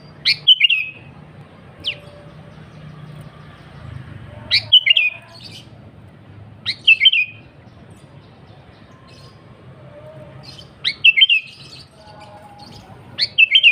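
Sooty-headed bulbul (kutilang) giving short, quick bubbly call phrases, about five of them a few seconds apart, over a low steady hum.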